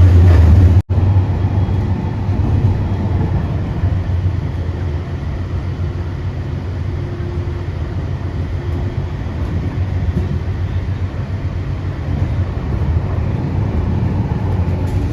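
Aircraft engines running, a loud steady low roar that swells slightly near the end.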